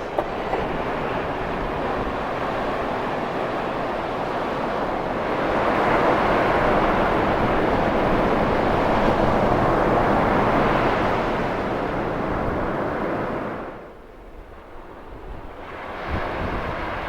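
Ocean surf washing on the beach: a steady rushing noise that swells louder for several seconds in the middle, then drops away briefly near the end before building again.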